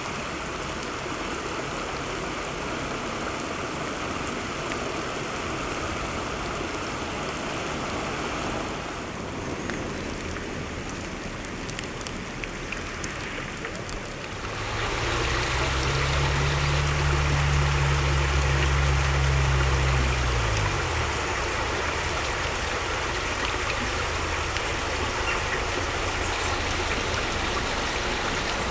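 Steady rush of flowing floodwater. About halfway through, a motor vehicle's engine hum joins, holds steady for several seconds, then drops in pitch as it passes and fades.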